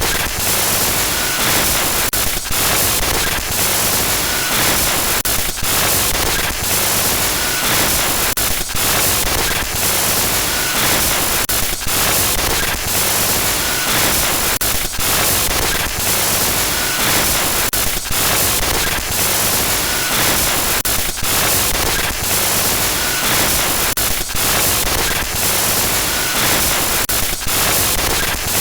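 Loud, harsh static glitch noise, a continuous hiss across the whole range broken by brief dropouts every second or so.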